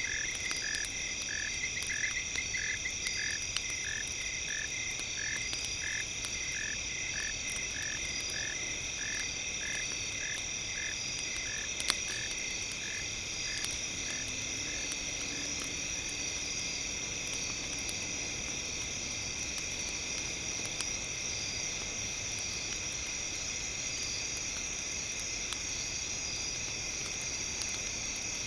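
Night nature ambience: a steady high insect chorus, with a rhythmic series of short calls at about two a second that fades out about halfway through. Faint crackles of a campfire are scattered through it.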